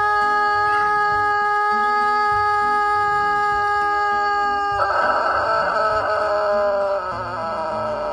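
Music with a rhythmic bass line under a long, perfectly steady held note; about five seconds in, a rooster crows over it, a rough, wavering call of about two seconds that falls off at the end.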